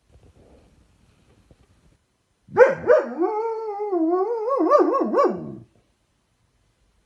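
Dog howling once for about three seconds: two sharp starts, then a drawn-out wavering note that wobbles quickly up and down near the end before dropping away.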